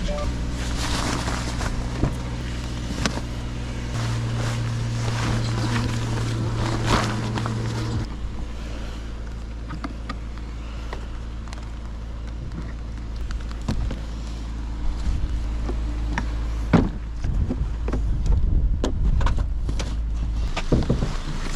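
A vehicle engine running with a steady low hum, with scattered knocks and clatter that grow busier near the end.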